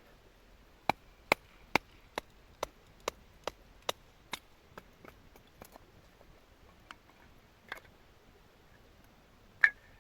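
Firewood being split by hand: a run of sharp wooden knocks, a little over two a second, that grow weaker after about four seconds, then a few scattered knocks and one loud strike near the end.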